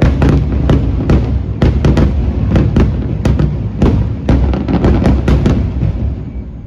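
Fireworks display bursting in a rapid, dense run of sharp bangs over a continuous low booming, dying away near the end.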